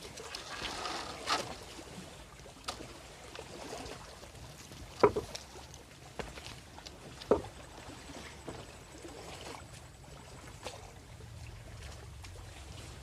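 Seawater sloshing and splashing in the shallows, with a few sudden sharp splashes, the loudest about five seconds in and another about two seconds later.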